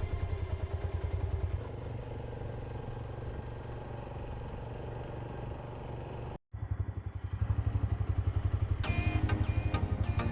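Motorcycle engine running with a fast, even pulse during a ride. It drops out completely for a moment about six seconds in. Near the end, a run of sharp, evenly spaced ticks comes in over the engine.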